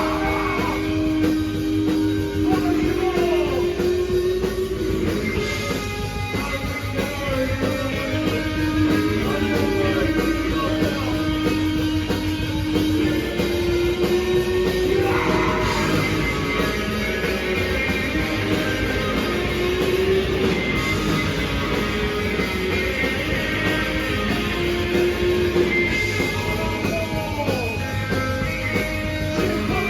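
Live rock band playing loudly: electric guitars with singing over the band, steady without a break.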